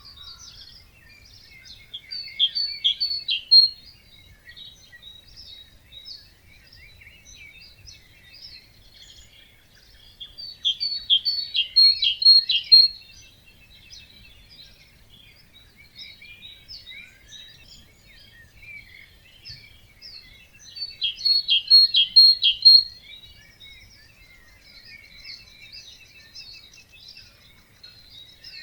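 Dawn chorus of wetland birds: one nearby bird sings a loud song of rapid repeated notes, about two seconds long, three times at roughly ten-second intervals, over fainter singing and calls of other birds.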